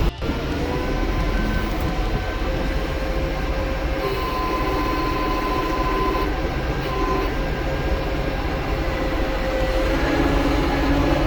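Tractor engine running steadily under load, a low rumble with a steady whine on top. It drops out for an instant right at the start.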